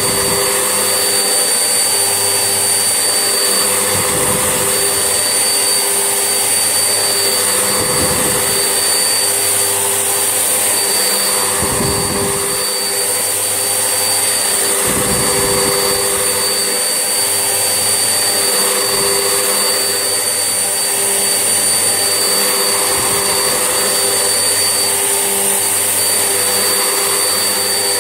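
Vax Essentials vacuum cleaner running steadily with a high motor whine, a low rumble swelling and fading every few seconds.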